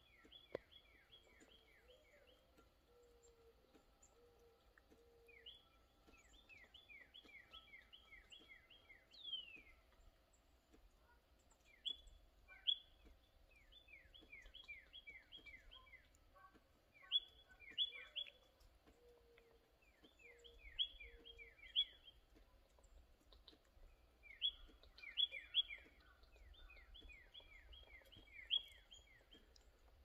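Songbird singing faint phrases of quick, falling notes, each phrase a rapid run of about a second or two, repeated every few seconds. A lower, slower series of notes sounds twice beneath it.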